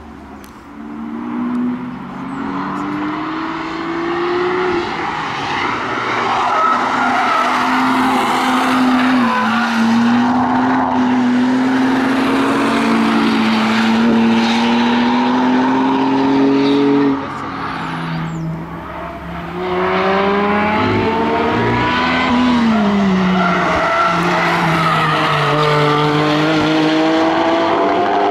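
Performance car engines passing on a race track, revving up and down through a corner. After a short lull, a car accelerates hard up through the gears, the engine note climbing several times with a drop at each shift. Near the end this is the Porsche 718 Cayman GT4 RS's flat-six.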